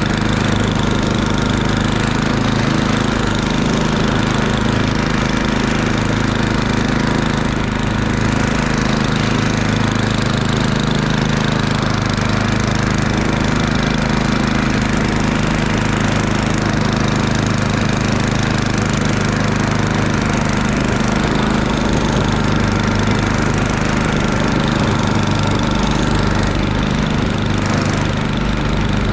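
Murray Ultra 8/27 snowblower's 8 hp engine running steadily at an even pitch.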